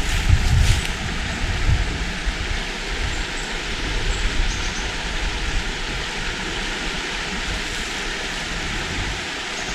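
Steady rushing of a river flowing over rocks, with low wind buffeting on the microphone in the first couple of seconds.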